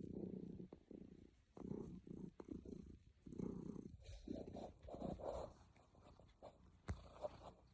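Domestic cat purring close up, a low rumble that swells and fades in waves about once a second. A single sharp click comes near the end.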